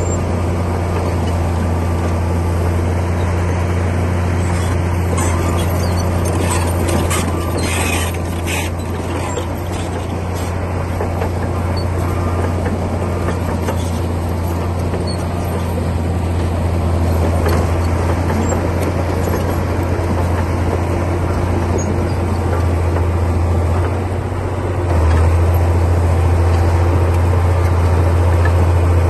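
Komatsu D60P bulldozer's diesel engine running steadily under load, with a few metallic clanks between about five and nine seconds in; the engine gets louder about 25 seconds in.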